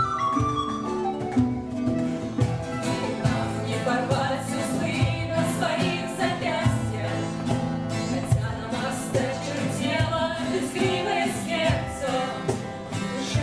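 Live acoustic folk music. A flute melody ends about a second in, and a new song starts with steady strummed accompaniment.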